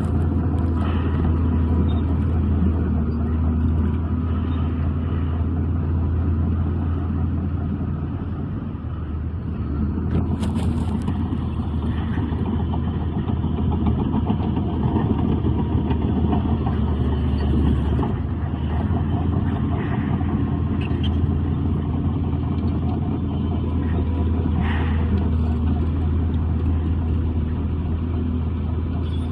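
Heavy diesel earthmoving equipment at a landfill runs steadily with a low drone, easing briefly about nine seconds in. A few short sharp knocks or squeaks sound over it.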